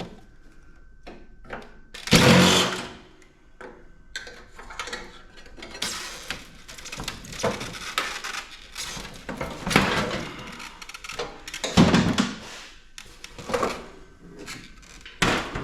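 A cordless drill driving out screws from the sheet-metal housing of a PTAC air conditioner in short bursts, mixed with irregular knocks and rattles of metal parts; the loudest burst comes about two seconds in.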